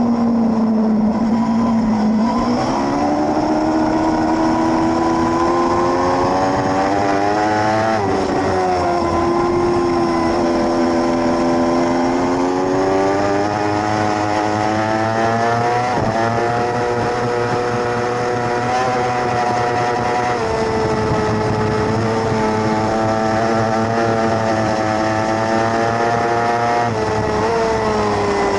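A 600-class racing motorcycle engine at racing revs. Its pitch climbs and falls throughout, with several sudden jumps in pitch as the rider changes gear and brakes into corners.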